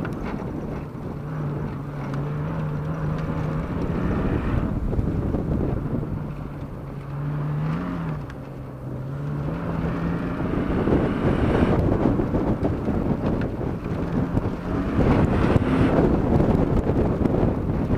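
BMW E36's engine running hard, its note rising and falling with throttle and gear changes, over a steady rush of tyre and dirt noise and wind buffeting the microphone.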